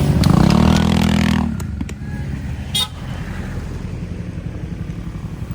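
Motor vehicle engine revving with rising pitch, then dropping back about a second and a half in to a steady low running with an even pulse. A short horn beep sounds once, near the middle.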